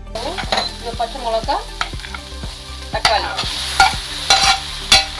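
Sliced onions dry-frying without oil in a hot stainless steel skillet: a steady sizzle, with a spatula stirring and scraping the pan in short clicks and squeaks. About three seconds in, chopped tomatoes go into the pan and the sizzle grows louder.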